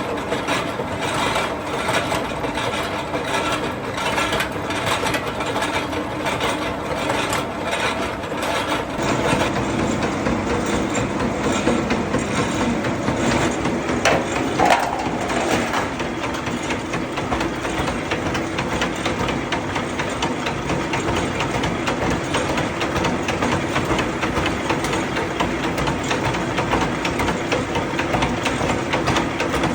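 Metalworking machinery running in a workshop, with a regular knocking for the first several seconds, then a steadier machine drone.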